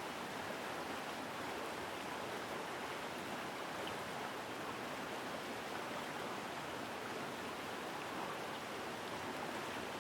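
Mountain river rushing steadily over rocks, a continuous full sound of flowing water.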